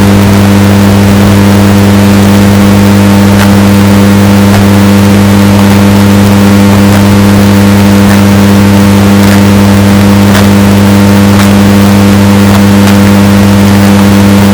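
Washing machine running with a steady motor hum, heavily bass-boosted and distorted, with faint clicks about once a second.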